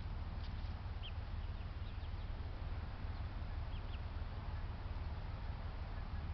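Birds in a backyard poultry yard: a few faint, short, high chirps over a steady low rumble.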